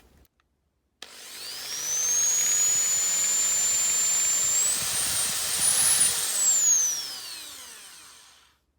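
Small electric drill drilling out the rivets that hold a die-cast model car's dashboard: the motor spins up about a second in with a high whine, runs steadily, rises briefly in pitch, then winds down and fades near the end.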